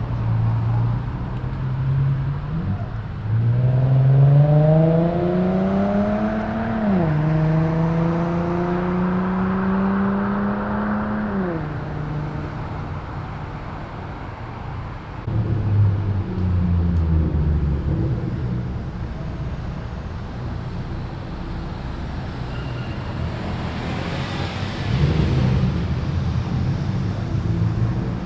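Modified car exhaust as a car accelerates: the engine note climbs, drops once at a gear change about seven seconds in, climbs again and falls away as the throttle is lifted around twelve seconds in. Other car engines follow, running low and passing.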